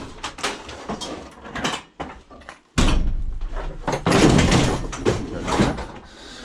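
Scrap metal pieces being shifted and set down in the back of a van: a run of knocks, clunks and scrapes, with a sudden loud, heavy clatter a little under three seconds in.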